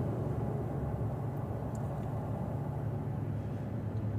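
Pickup truck driving along, its engine and road noise making a steady low hum inside the cab.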